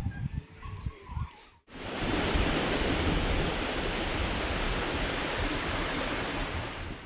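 A waterfall's steady rushing roar starts abruptly about two seconds in and cuts off just before the end. Before it there are faint bird chirps and a few low knocks.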